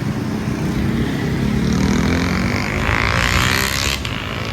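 KTM 250 Duke's single-cylinder engine, fitted with an aftermarket Barrel decat pipe and slip-on exhaust, being revved. Its pitch climbs over the first couple of seconds, peaks loudest about three seconds in, and falls back a little before four seconds.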